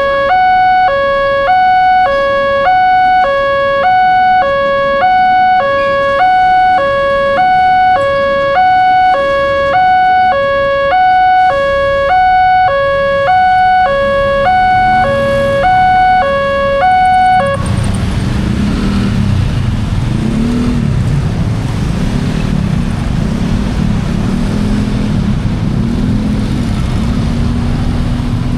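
Railroad crossing's electronic warning alarm sounding a two-tone ding-dong, alternating low and high about once a second. It cuts off suddenly about 17 seconds in, and a steady rumble of engines and road traffic takes over.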